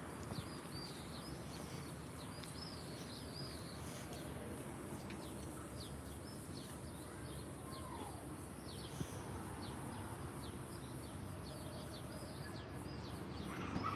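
Small birds chirping: many short, high chirps repeating throughout, over a steady low outdoor background noise.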